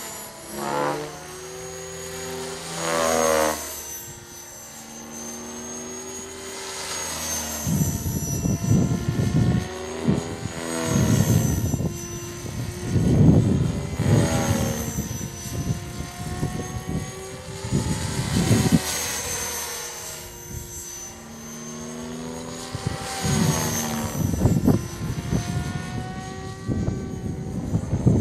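CopterX 500 electric RC helicopter flying fast passes: the high whine of its motor and rotor blades rises and falls in pitch as it comes and goes. Gusts of strong wind buffet the microphone with a low rumble through the middle and again near the end.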